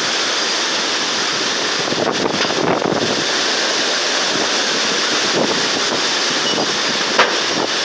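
Hurricane wind blowing hard as a steady rushing noise, with one short sharp click about seven seconds in.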